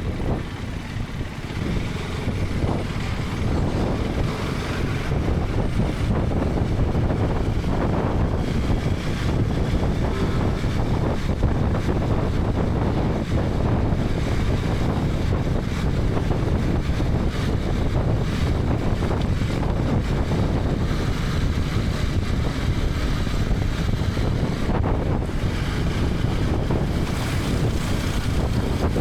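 Wind rushing over the microphone of a helmet-mounted action camera on a moving KTM 250 Adventure, with the motorcycle's single-cylinder engine and road noise underneath. The rush grows a little louder over the first few seconds, then holds steady.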